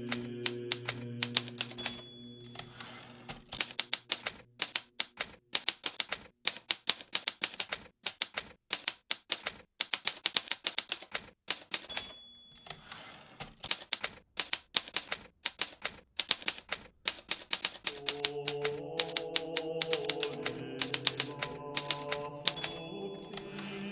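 Hermes Baby portable typewriter being typed on at a steady fast pace, its keys striking in quick clicks with short pauses. A brief ringing tone comes three times, about two seconds in, near the middle and near the end: the margin bell at the end of a line.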